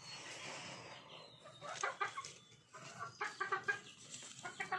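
Chickens clucking in short, quick groups of calls, over a soft hiss in the first second.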